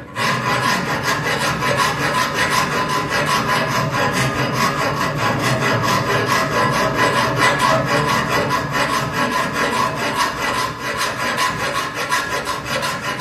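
Plasma cutter arc cutting into a truck's exhaust pipe: a loud, harsh, steady hissing crackle with a constant hum underneath, which stops abruptly near the end.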